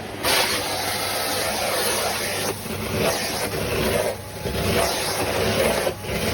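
Vacuum cleaner running, a steady rushing noise that dips briefly about every second and a half to two seconds.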